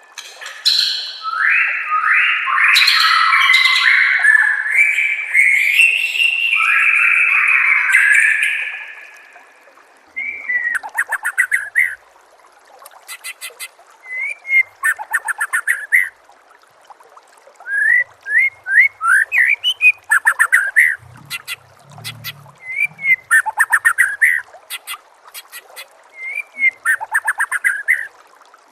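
White-rumped shama singing. A dense, unbroken run of varied whistled notes lasts about eight seconds, followed by short phrases of rapid chattering trills and upswept whistles separated by brief pauses.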